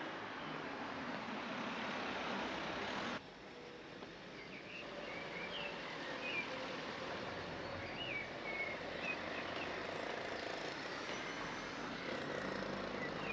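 Outdoor ambience: a steady noisy rush that cuts off suddenly about three seconds in, then small birds chirping again and again over a low background hum.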